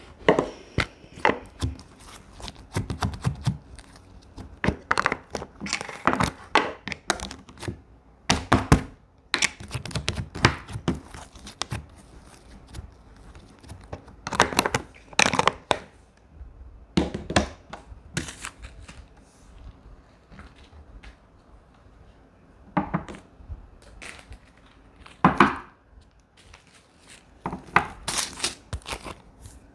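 Slime being squished and stretched by hand, giving irregular sticky pops and crackles in short clusters with brief pauses between them.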